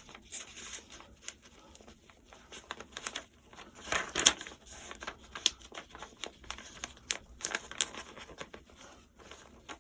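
A sheet of paper being folded and creased by hand: irregular rustling and crinkling, with the loudest crackles about four seconds in.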